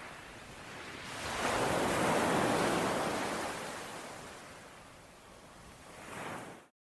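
Ocean waves washing onto a shore: one wave swells about a second in and slowly draws back, and another builds near the end before the sound cuts off suddenly into silence.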